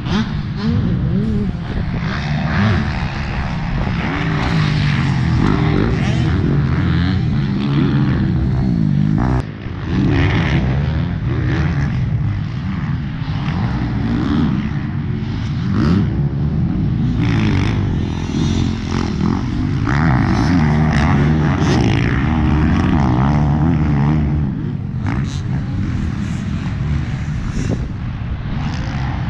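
Motocross bike engine revving as it is ridden, its pitch rising and falling over and over, with a brief drop in level about nine seconds in.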